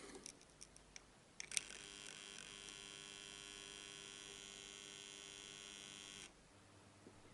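Hand-wound mains power transformer, not yet impregnated, humming steadily with a buzzing edge. A click comes just before the hum starts, and the hum cuts off suddenly a second before the end. The hum is loud enough that impregnating the windings with epoxy is the intended cure.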